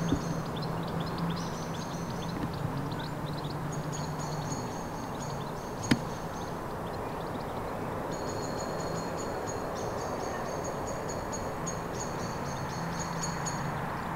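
Outdoor ambience with songbirds singing: rapid high chirps in repeated phrases over a steady low hum. A single sharp click about six seconds in.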